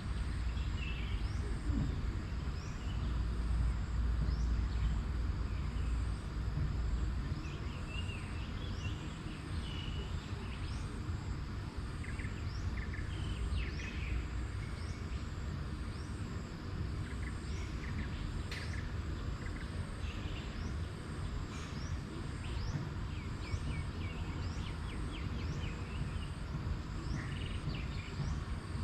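Outdoor nature ambience: birds chirping and calling in short, scattered phrases over a steady low rumble that is heaviest for the first seven seconds or so.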